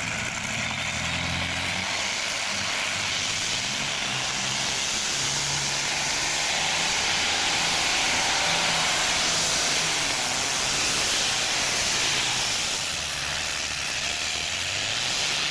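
Engine of a tractor-pulling machine running hard under load, a loud continuous roar that swells to a peak about halfway and then eases off.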